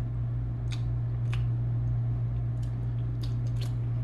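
A man chewing a bite of chicken wing, with several short wet smacking clicks. Under it runs a steady low hum.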